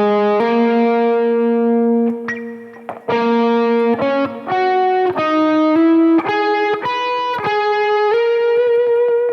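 Electric guitar through a Fractal Audio Axe-Fx II, playing a slow single-note Lydian phrase built around the sharp 11. It holds one note, dips about two seconds in, then plays a run of notes that ends on a long note with vibrato.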